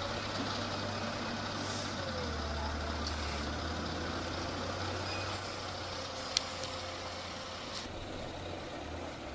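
A heavy machine's engine running steadily, with a sharp click about six seconds in.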